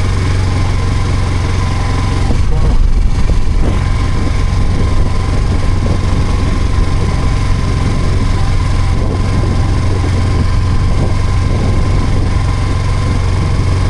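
Yamaha R25's 250 cc parallel-twin engine running at a steady idle after being push-started with a dead electrical system, a little rougher about three seconds in.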